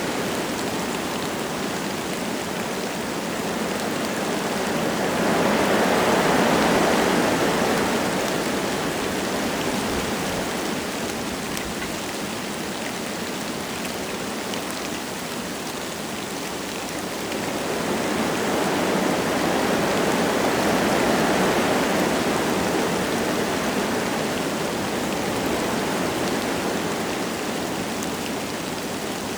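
Wind gusting through forest trees with light rain falling, a steady rushing that swells twice with the gusts.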